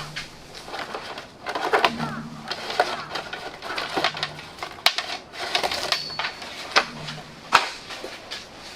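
Hands-on handling noise: rustling with many irregular sharp clicks and knocks, and a faint low hum that comes and goes.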